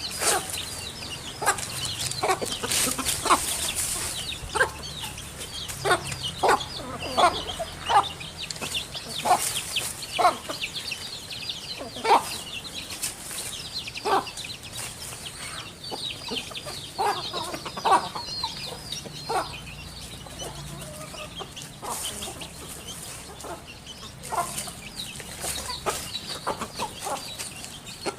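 Chickens clucking in short, irregularly spaced calls, with small birds chirping continuously at a higher pitch.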